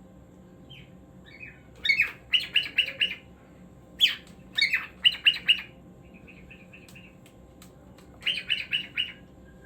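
Cockatiel chirping in three quick runs of short, repeated notes, with a few softer chirps between the second and third run.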